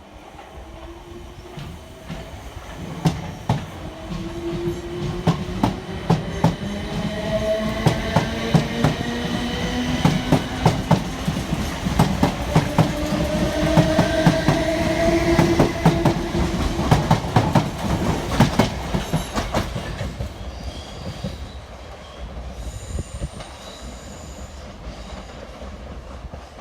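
Train passing close by: a whine rising steadily in pitch over several seconds, with fast clicking of wheels over rail joints that builds, peaks about halfway through, then fades.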